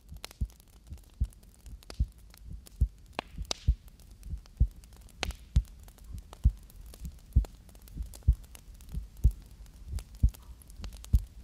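Slow, steady heartbeat: low thumps about once a second, with faint clicks and a brief soft rustle from hands moving near the microphone.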